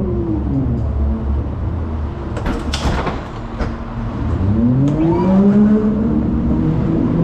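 A vehicle's motor winds down in pitch, a few sharp metallic clanks follow, then the motor winds back up and settles at a steady pitch.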